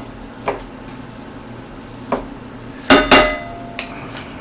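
Kitchen utensils knocking on a skillet as butter goes in: a few light taps, then two sharp metallic clanks with a short ringing about three seconds in.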